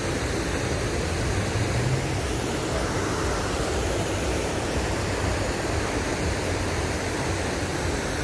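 Steady rushing noise with an irregular low rumble beneath it, unchanging throughout.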